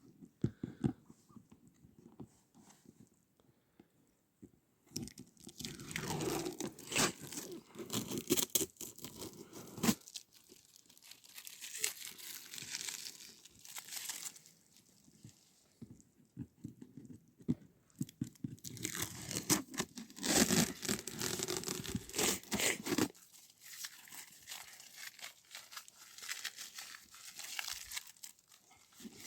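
Rustling and crunching noise in several bursts a few seconds long, each made of many quick crackles, with quieter gaps between them.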